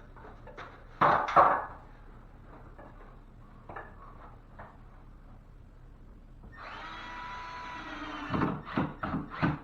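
Wooden knocks and clatter as wood and tools are handled, with a cordless drill whining steadily for about a second and a half past the middle, then a quick run of knocks near the end.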